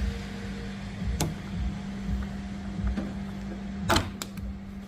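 A few sharp clicks and knocks of plastic trim fasteners being prised off a car body, about a second in and twice near the end, over a steady low hum.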